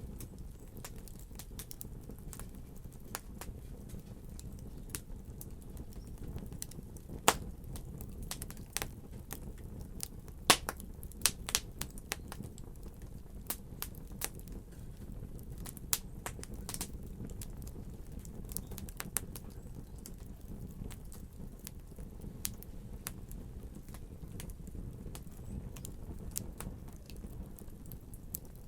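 Wood fire in a fireplace burning with a steady low rumble and irregular sharp crackles and pops, a few louder snaps scattered through.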